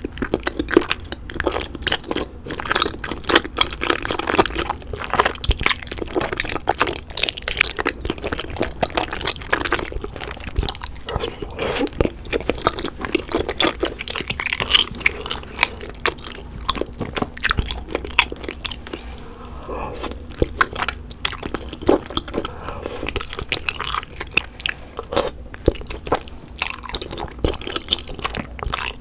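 Close-miked chewing of cheesy rosé pasta with chewy tapioca bunmozi and glass noodles: continuous wet, sticky mouth sounds and smacks.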